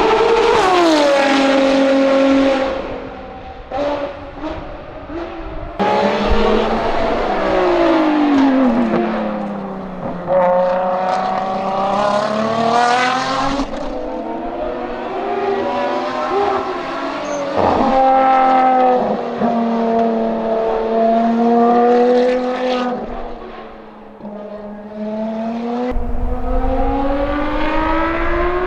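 Ferrari FXX K Evo's V12 engine on track, its pitch falling through downshifts and climbing again under acceleration several times. There are a few sharp cracks while off the throttle about four seconds in.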